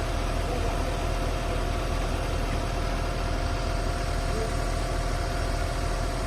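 A vehicle engine running with a steady, even drone.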